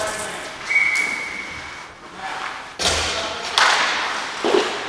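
Ice hockey play on the rink: sticks, puck and skates giving several sharp knocks and scrapes, mostly in the second half. About a second in there is a steady whistle-like tone lasting about a second.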